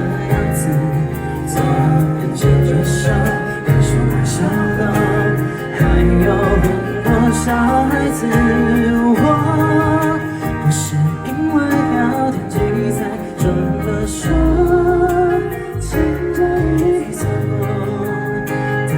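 A rock band playing a song live: guitars, bass and drums with cymbals, and a wavering melody line over them.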